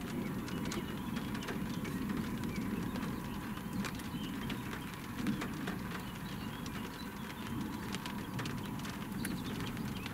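Raindrops tapping irregularly on the car's roof and windscreen, heard from inside the cabin, over a steady low rumble.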